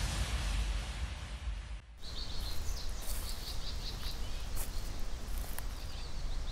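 Small birds chirping in woodland: a run of short, high chirps, starting about two seconds in, over a steady low rumble with a few faint clicks. Before the chirps begin there is a fading wash of noise.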